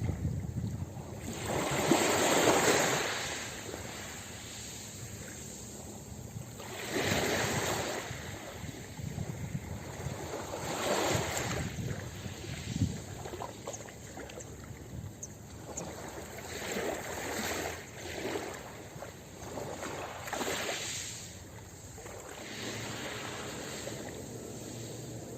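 Ocean waves breaking on a beach: a wash of surf that swells and recedes about every four to five seconds, the loudest break about two seconds in.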